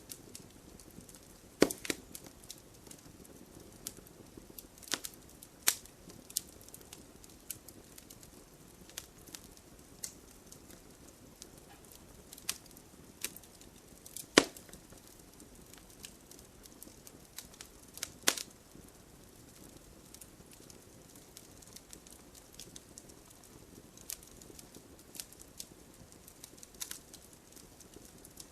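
Logs burning in a fireplace, crackling with irregular sharp pops and a few louder snaps spread through, over a soft low hiss of the flames.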